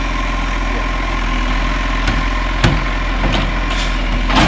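Garbage truck's diesel engine idling steadily, with several sharp knocks and clatters in the second half.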